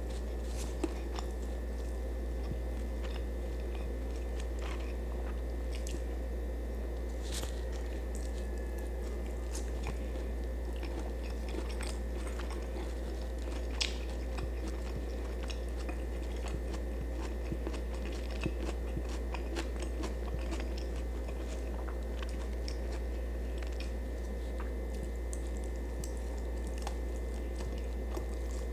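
A person chewing food close to the microphone, with many small sharp clicks and crunches scattered through, over a steady low hum.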